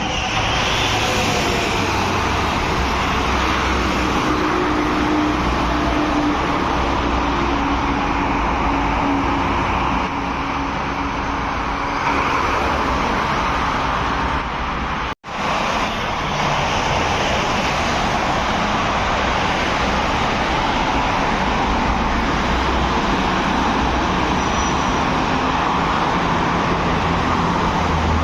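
Steady road traffic noise of vehicles running along a road, with engine tones among the tyre and wind noise. It breaks off for an instant about halfway through.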